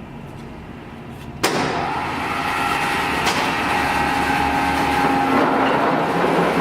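A 36" x 240" Summit engine lathe switching on about a second and a half in, its drive starting abruptly and running on steadily with a whine. A single click sounds partway through.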